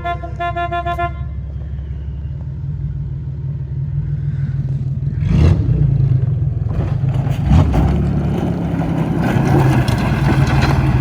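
A car horn toots several quick times in the first second. Then the car's engine runs steadily and revs harder from about five seconds in, getting louder toward the end.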